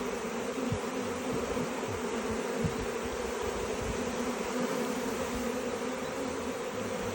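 Honeybees buzzing as a dense, steady swarm hum around an opened hive, with a few faint low knocks.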